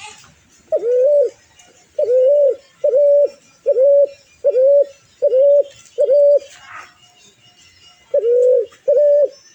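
A bird calling in a run of loud, single-pitched coo-like notes, each about half a second long: seven in a row, a short pause, then two more.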